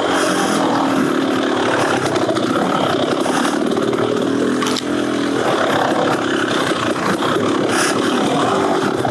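Beta Xtrainer 300 two-stroke dirt bike engine running through an FMF Gnarly exhaust under riding load, its note wavering up and down as the throttle is worked, with a brief easing about halfway through.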